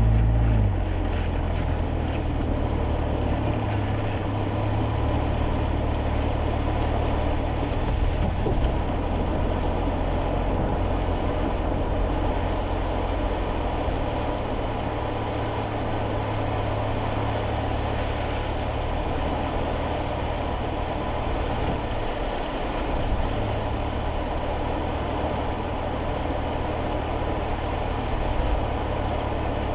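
Steady drone of a kei car driving on wet roads, heard inside the cabin: a low engine hum under an even hiss of tyres and road noise.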